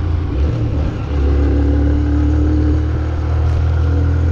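Motor vehicle engine running in street traffic, dipping briefly about a second in and then picking up again and running steadily.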